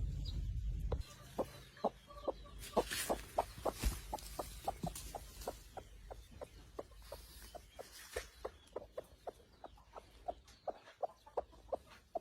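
A broody hen clucking in a long, steady series of short, sharp clucks, about three a second. A low rumble cuts off about a second in.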